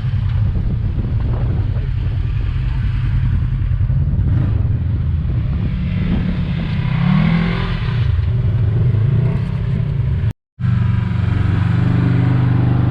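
Side-by-side UTV engine running under load, with a brief rise in revs about seven seconds in. The sound cuts out for a moment just after ten seconds, then carries on at a steady pitch.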